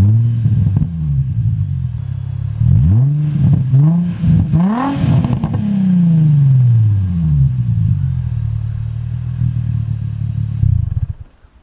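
2004 Infiniti G35's 3.5-litre V6 with the muffler deleted, blipped repeatedly so the pitch rises and falls, with the highest rev about halfway through. It then settles to a steady idle and stops abruptly near the end.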